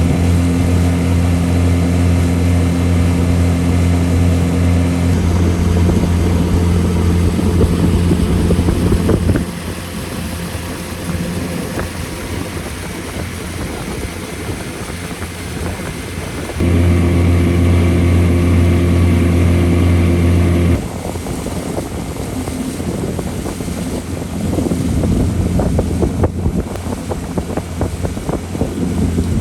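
Motorboat engine running steadily at speed, with a loud low hum and the rush of the boat. The hum changes level abruptly several times as one stretch gives way to another.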